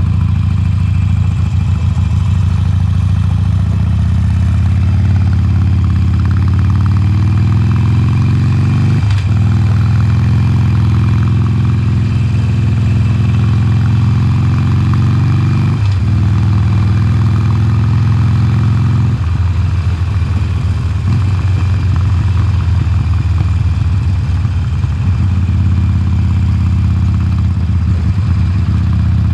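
2020 Harley-Davidson Sportster Forty-Eight's air-cooled V-twin on its stock exhaust, under way: the revs climb and break at two gear changes, about nine and sixteen seconds in. The engine note drops off a few seconds later and builds again near the end.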